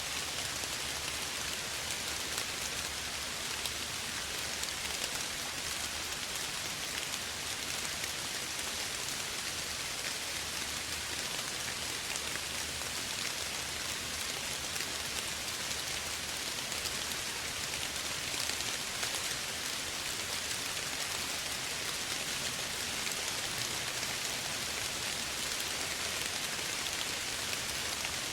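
Steady, soft rainfall pattering on surfaces, an even hiss of many small drops with no breaks or louder events.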